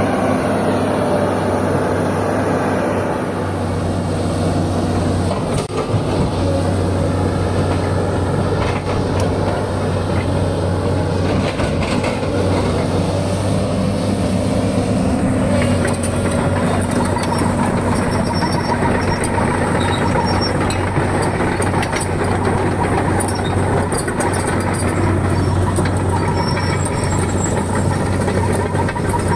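Sany 210 excavator's diesel engine running steadily, with a slight change in its note about halfway through.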